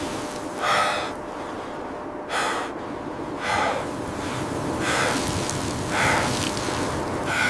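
A person breathing hard, six loud breaths about every second and a half, over a steady background hiss.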